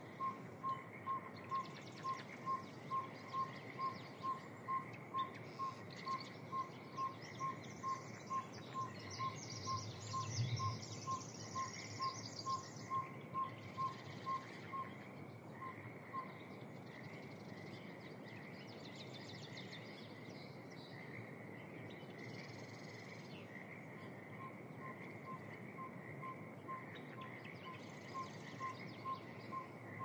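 A bird repeating a single short call note evenly, about twice a second, falling silent about halfway through and starting again near the end, with other birds chirping faintly behind it.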